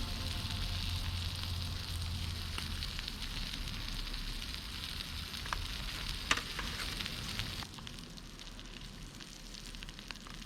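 Food sizzling on a hot griddle plate, with scattered small crackling pops and a sharper pop about six seconds in. The sizzle drops quieter near the end.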